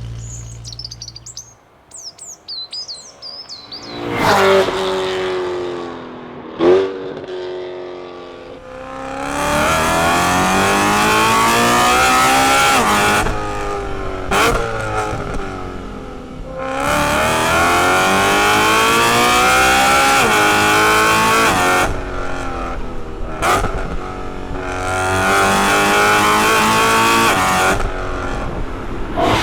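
Straight-piped BMW E92 M3's 4.0-litre S65 V8 accelerating hard in three long pulls, the pitch climbing each time and dropping at the gear change. There are short, sharp rev spikes in between. Faint birdsong is heard in the quiet first few seconds.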